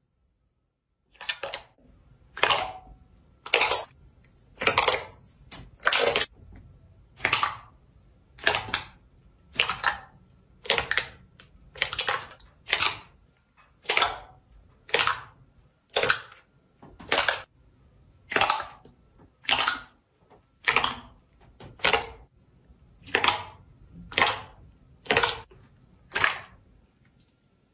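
Slime being pressed or squeezed by hand over and over, a short squelch about once a second, some two dozen in all.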